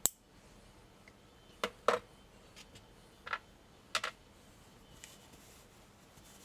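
Clicks and knocks of metal parts of a PPSh-41 submachine gun being handled: a sharp click at the start, then a few separate clunks about two, three and four seconds in.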